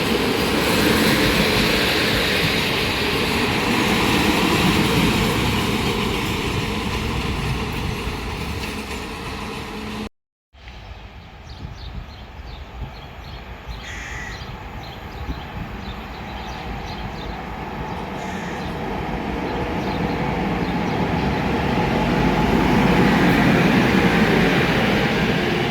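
A train running on the rails, its noise slowly fading away. After a sudden cut it is quiet for a while, then another train is heard approaching and growing steadily louder.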